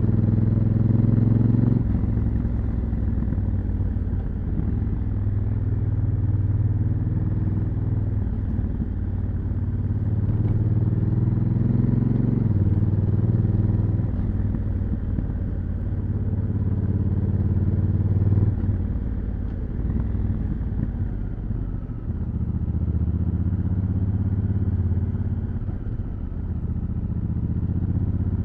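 Honda Africa Twin CRF1000L's parallel-twin engine on its stock exhaust, running under way. Its note climbs and falls with the throttle, with sudden drops in pitch about three times as the DCT gearbox changes gear.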